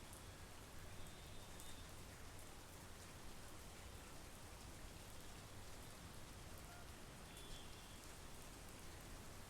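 Steady monsoon rain falling, faint and even, with scattered small drop ticks.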